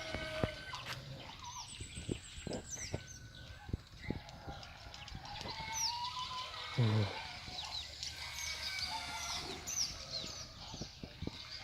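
Swiftlets twittering as they hunt swarming termite alates, a scatter of short high chirps that dip in pitch, with a chicken's calls mixed in. A short low sound falling in pitch stands out about seven seconds in.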